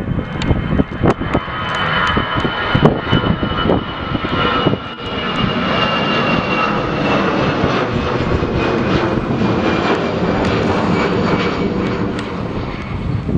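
Jet airliner's engines passing, a steady loud rush with a high whine that slowly falls in pitch, dropping away near the end. Sharp crackles in the first few seconds.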